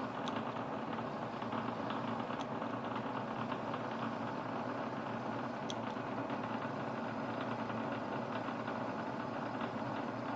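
A shop machine tool running steadily, with a few faint ticks now and then.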